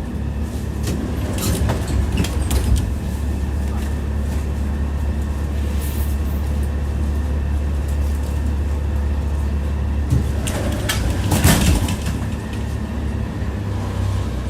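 Tram running along the track with a steady low drone, its wheels clattering over rail joints in two bursts of knocks, near the start and about ten seconds in.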